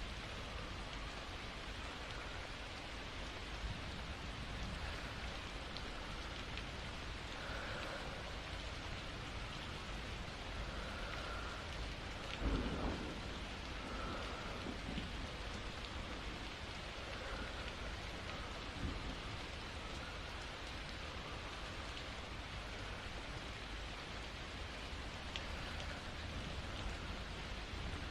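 Steady rain. A low roll of thunder comes about halfway through, with a fainter rumble a few seconds later.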